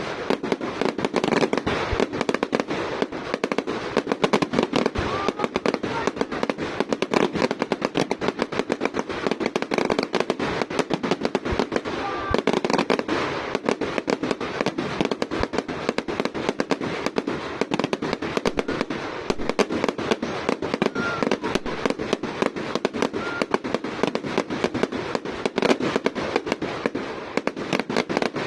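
Fireworks display going off in a rapid, continuous barrage of bangs and crackles, many reports a second.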